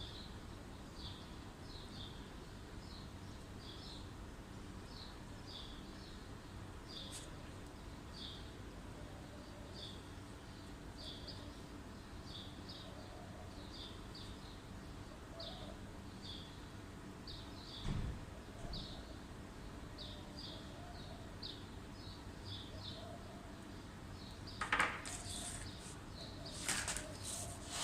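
A small bird chirping over and over, about two short high chirps a second, over a faint steady low hum. A single dull thump comes about eighteen seconds in, and a few sharp clatters near the end.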